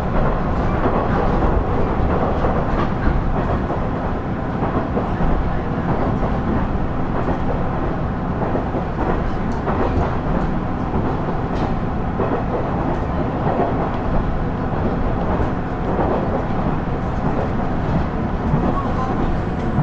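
KiHa 110-series (KiHa 112) diesel railcar running along the line: a steady rumble of engine and wheels on the rails, with a few faint clicks.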